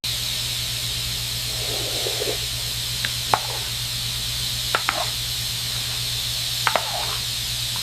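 Steady, loud hiss over a low hum, with a few brief sharp clicks about three, five and seven seconds in.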